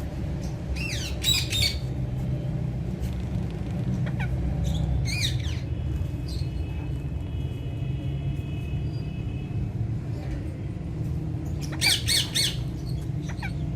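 Alexandrine parakeets squawking in short harsh bursts: a few calls about a second in, another burst around five seconds, and a louder cluster near the end, over a steady low hum.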